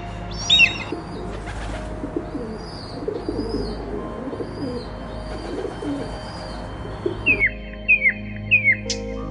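Bird calls. A sharp descending call about half a second in, then a stretch of low wavering calls under a steady hiss, then several short descending chirps near the end.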